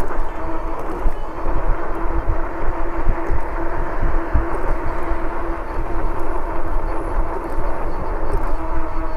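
Steady riding noise from an e-bike under throttle, with a continuous hum and uneven low rumbling from wind on the microphone.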